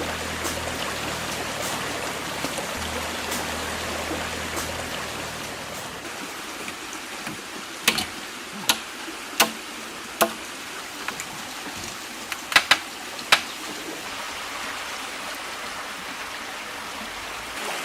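Steady rushing of running water, with a run of about seven sharp knocks spaced under a second apart in the middle.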